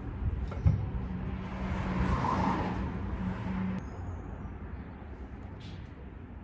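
Road traffic noise, with a vehicle passing about two seconds in and fading away afterwards.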